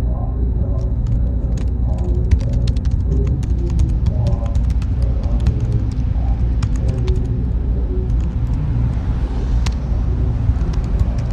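Computer-room ambience: a steady low fan drone, with a run of quick keyboard clicks through the first seven seconds or so and a few stray clicks later.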